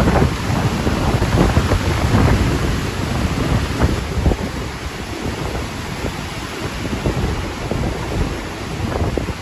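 Strong wind buffeting the microphone: a loud, low rumbling noise that surges irregularly with the gusts.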